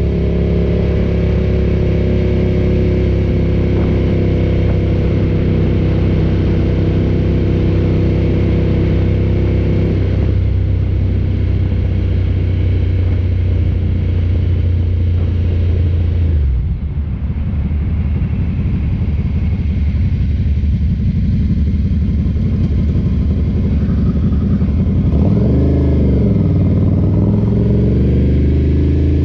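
Ducati cafe racer motorcycle engine running under way at a steady pitch. Just over halfway through, the engine drops off briefly, then comes back. Near the end the engine pitch swoops down and up before it settles steady again.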